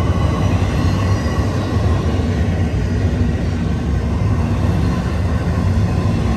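Double-stack intermodal well cars rolling past close by, a steady rumble of steel wheels on the rails.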